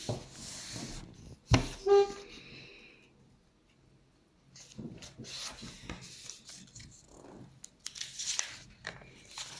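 A sheet of paper being folded in half, with rustling and crinkling as it is handled and creased. A sharp knock comes about one and a half seconds in.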